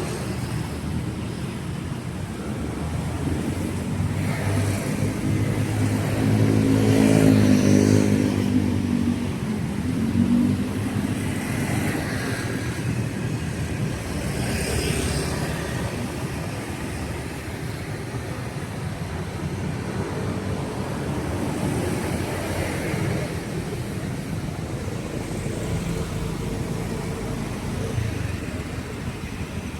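Street traffic: motor vehicles passing along a city street, with one engine passing loudest about seven seconds in, and lighter passes later.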